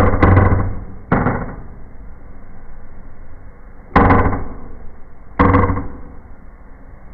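Four sharp bangs from a small indoor firework, each dying away over about half a second: two in the first second or so, then one about four seconds in and another a second and a half later.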